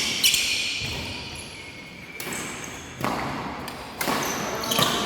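Badminton rackets striking a shuttlecock during a rally: several sharp, echoing hits about a second apart.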